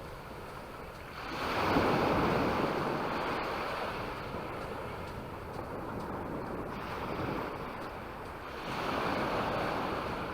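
Sea waves breaking and washing up the beach. Two surges: a louder one about a second in and another near the end.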